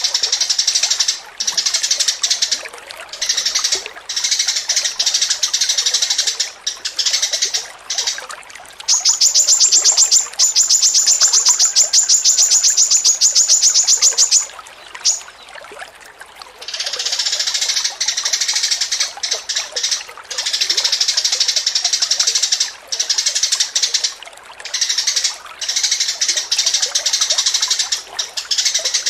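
Songbird masteran song: dense, high, chattering phrases with short breaks. From about nine seconds in, a fast, even trill of repeated high notes, about nine a second, runs for some five seconds before the chattering phrases resume.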